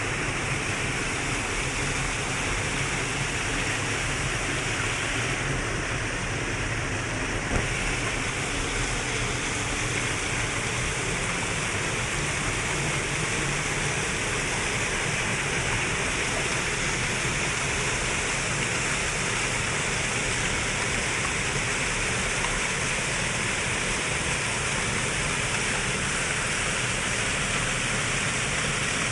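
Waterfall: a steady rush of falling water, with one brief click about a quarter of the way through.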